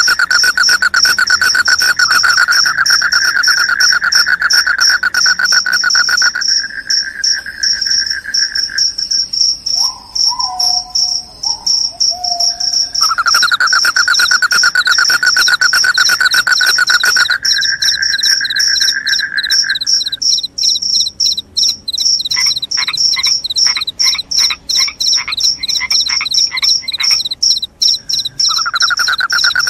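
Crickets chirping in fast, continuous trills: a high trill runs throughout, and a lower trill stops and starts again twice. A short falling whistle comes about ten seconds in, and a quick run of short rising chirps comes a little past twenty seconds.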